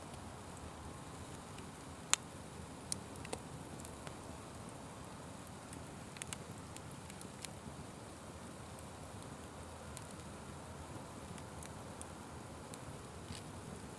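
Open fire crackling steadily, with scattered sharp pops; the loudest comes about two seconds in, and a cluster follows between about six and seven and a half seconds.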